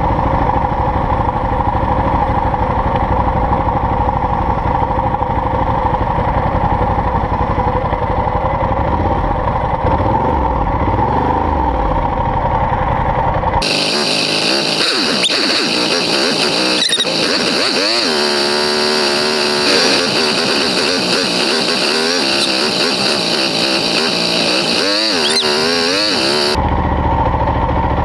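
Motorcycle engine running steadily, cut abruptly about halfway through to a different recording, where the engine pitch rises and falls repeatedly as it revs, then cut back to the steady running near the end.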